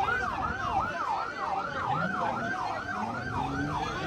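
Emergency vehicle siren in a fast yelp, sweeping up and down about three times a second. A fainter low tone rises and falls beneath it in the second half.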